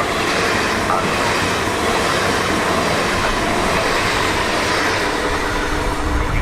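A train running through the station close by: a steady, loud rush of wheel and running noise on the rails.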